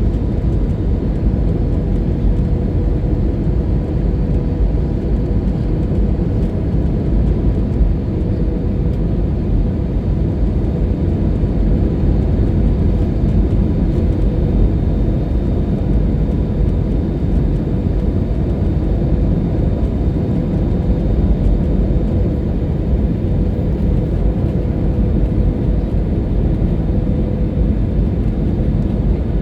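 Cabin noise inside an Airbus A320-200: a steady, loud rush of engine and airflow noise, heavy in the low end, with a steady hum tone running through it.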